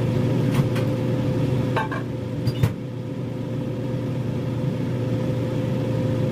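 Steady machine hum of a running kitchen appliance, with a few light clicks and knocks of dishes and food being handled; two sharper knocks come close together about two and a half seconds in.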